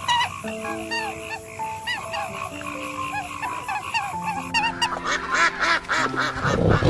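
A dense chorus of many short, rapidly repeated animal calls over steady held tones, with a louder noisy rush coming in near the end.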